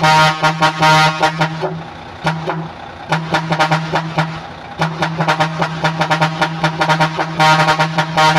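Truck horns tooting in quick repeated honks over a steady low drone, easing off for a few seconds in the middle before picking up again.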